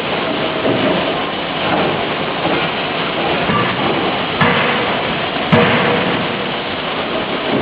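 50 kJ closed-die forging hammer striking twice, about a second apart, over a loud steady noise of the running machinery.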